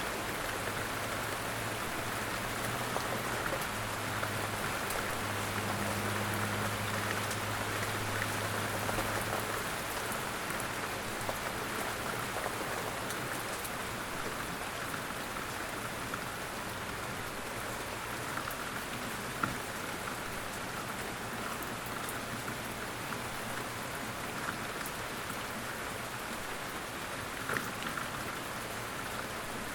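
Light rain falling steadily, with now and then a single louder drop hit, about two-thirds of the way in and again near the end. A faint low hum sits under it for the first third.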